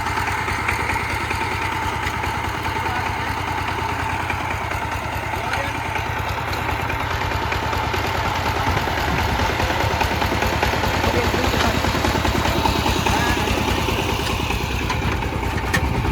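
Small Chinese-made tractor engine of about 13 hp running steadily with an even low chug, getting a little louder about halfway through.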